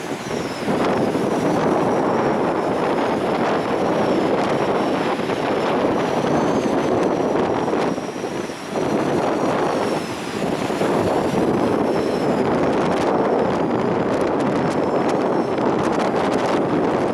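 Storm-force sea wind blasting across the microphone in a steady loud rush, easing briefly twice in the middle, with a faint high wavering whistle above it.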